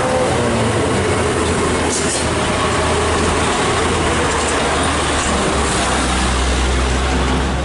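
Loud, steady running of a heavy vehicle's engine with a low hum and dense road and tyre noise, the low hum growing stronger in the last couple of seconds.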